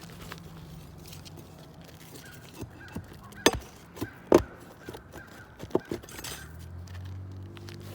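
A few sharp knocks and taps from hand tools working on an asphalt shingle roof, the two loudest about three and a half and four and a half seconds in, then two lighter ones about a second and a half later. A low drone comes in near the end.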